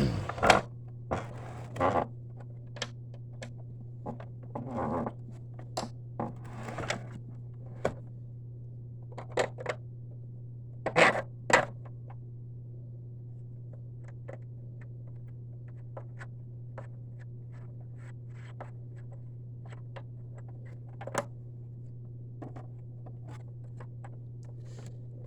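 Hands working on a Hoover Preferred upright vacuum cleaner, fitting a bolt and parts: scattered clicks, scrapes and knocks, with a pair of louder knocks about eleven seconds in, over a steady low hum.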